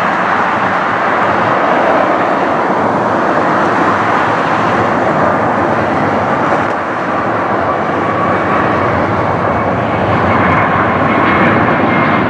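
Jet airliner's engines, a loud steady rush of noise as the aircraft passes close, with a faint high whine coming in about eight seconds in.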